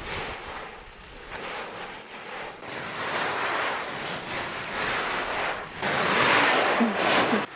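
Rustling, swishing noise that swells and fades in surges, loudest in a surge near the end.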